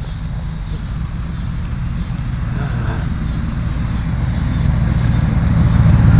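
A car engine rumbling low and steady, getting gradually louder toward the end as it draws closer.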